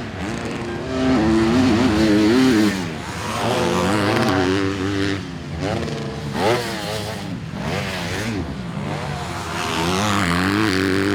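Motocross bike engines revving hard, pitch climbing and dropping again and again as the bikes accelerate and shift.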